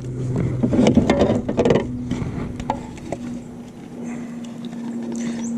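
A steady low motor hum, with a run of clicks and rattles about one to two seconds in and a few more later, like fishing tackle being handled in a boat.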